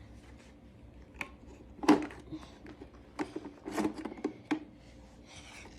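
Plastic clicks and knocks from a Shark robot vacuum being handled and taken apart, the loudest knock about two seconds in and a quick run of clicks about a second later, with a short rustle near the end.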